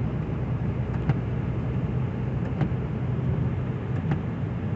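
Steady engine and road noise inside a moving vehicle's cabin, a low rumble with a few faint clicks.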